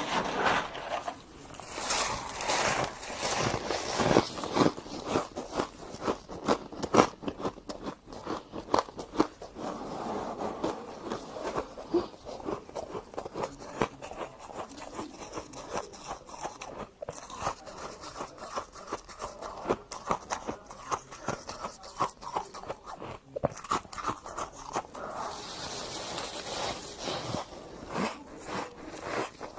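Close-miked biting and chewing of freezer frost: dense, irregular crunches with squeaky crackles, going on without a break.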